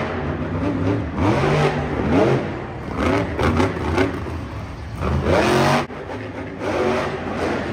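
Monster truck's supercharged V8 engine revving hard in repeated bursts, its pitch climbing and falling several times, with a sharp cut-off just before the end.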